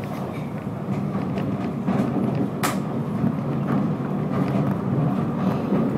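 Southend Pier train running along the pier, a steady rumble of wheels on track heard from aboard, with one brief sharp click about two and a half seconds in.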